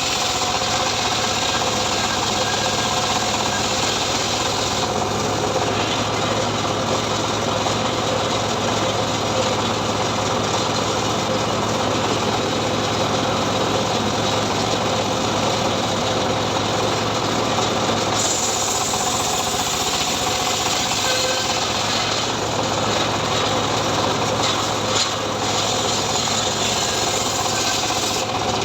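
Engine-driven homemade srekel log saw running steadily at speed through sengon wood, its texture changing about five seconds in and again near eighteen seconds as the cut goes on.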